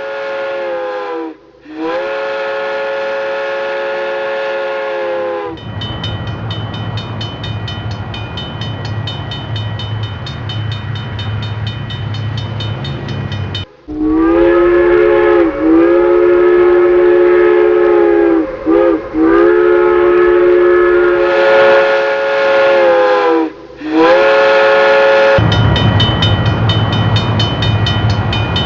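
Miniature train sounds: a multi-note train horn sounding in long blasts with short breaks and slight pitch bends, alternating with stretches of the train running with a low hum and a fast, even clicking. The horn sounds for the first five seconds or so, then the running sound, then the horn again from about the middle, and the running sound returns near the end.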